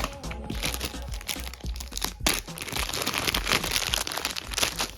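Plastic crinkling and rustling with sharp clicks as a phone case is handled and swapped, with one louder click a little past two seconds in.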